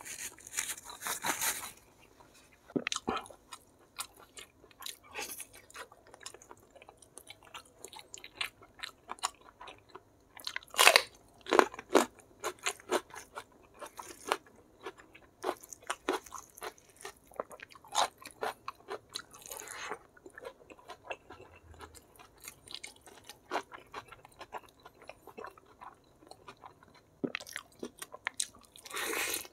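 Close-miked eating: chewing and crunching on fried chicken with rice, a long run of short sharp crunches and wet chewing sounds. The loudest crunches come about eleven and twelve seconds in.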